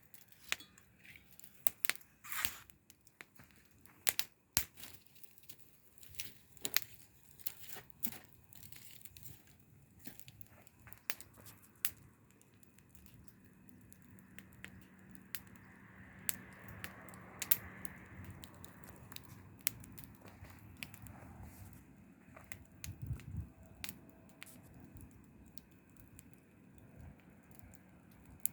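Bonfire crackling: irregular sharp pops and snaps, thickest in the first half, with a soft rushing sound through the middle.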